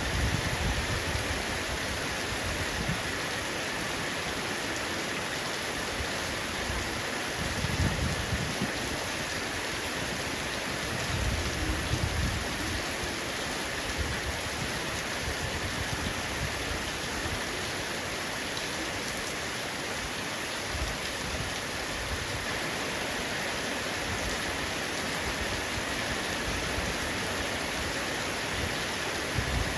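Heavy rain falling steadily on a roof, a dense even hiss of drops, with brief low rumbles about 8 and 12 seconds in.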